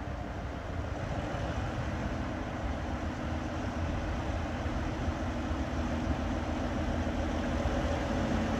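Train running with a steady low rumble that grows gradually louder, with a steady engine note showing near the end.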